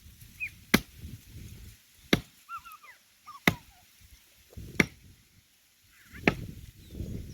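Axe chopping into the trunk of a dry standing tree: five sharp strikes about every second and a half. The trunk is dry and hard, so each blow bites slowly.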